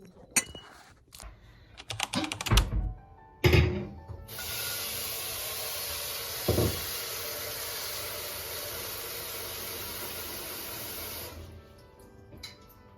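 A few household clicks and knocks, then a steady hiss that runs about seven seconds and stops abruptly.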